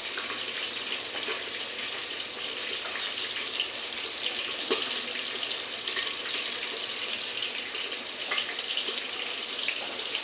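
Hot oil sizzling steadily in a pan with panch phoron spices frying in it, with a few small crackles.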